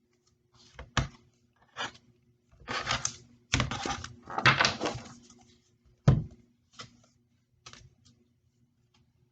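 Tarot cards being shuffled and handled: short papery riffling bursts in the middle, with a few sharp taps and snaps of cards on a surface about a second in, just after six seconds and near the end.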